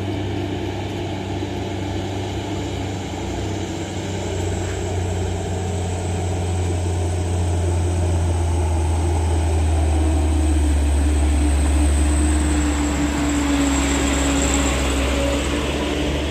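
Heavy truck's diesel engine running steadily on the climb, a low drone with a thin high whine above it.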